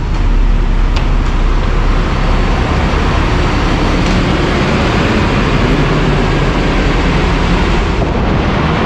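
Steady, loud rumble of a vehicle running, heavy in the low end, with no distinct events.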